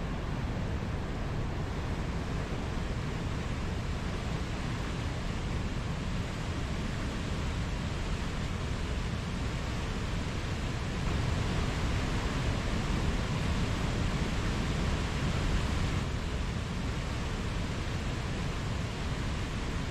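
Rushing water of a mountain stream, a steady even noise, swelling slightly for a few seconds in the middle.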